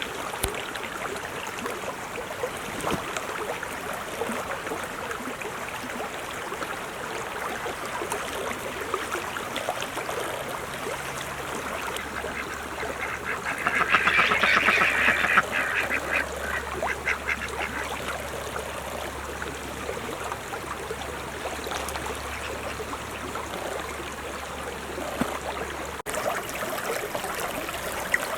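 Ducks quacking over a steady noisy background, with a loud burst of rapid quacks about halfway through that lasts some three seconds.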